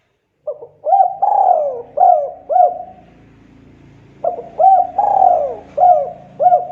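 Spotted dove cooing: two phrases of several coos each, one starting about half a second in and the next about four seconds in.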